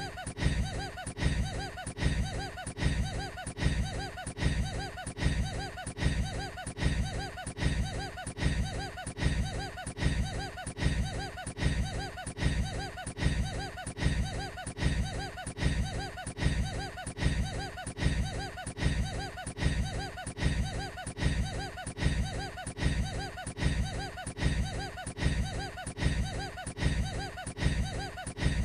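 A man's short, weird laugh, a snicker-like burst repeated over and over at an even rhythm as a loop.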